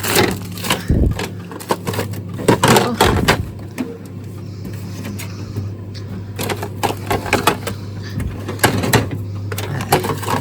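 Frozen packets and containers knocking and clattering as they are moved around and packed into a freezer, over a steady low hum.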